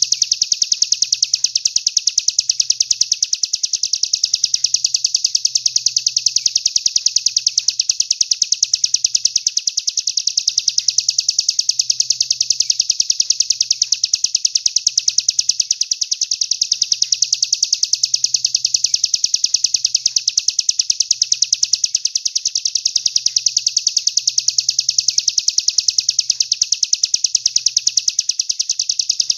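A continuous, very fast, even trill of high notes from a songbird training recording, held without a break.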